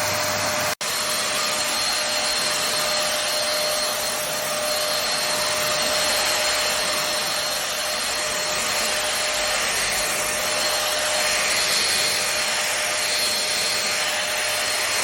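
Home-Tek Powersonic stick vacuum cleaner running steadily: a rush of air with a steady whine, dropping out for an instant about a second in.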